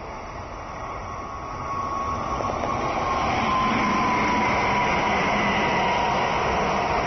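Meitetsu electric train, a 3100 series coupled to a 2000 series, passing close by: the rumble of wheels on rails grows louder over the first few seconds, then stays level. A thin whine rides over it and slowly drops in pitch.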